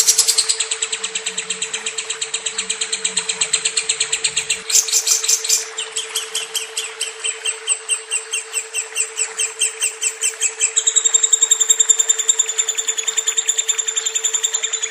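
Lovebird giving a long, unbroken chattering trill of rapid high chirps, the long-duration song that keepers prize. The trill changes its pattern twice over a steady low hum.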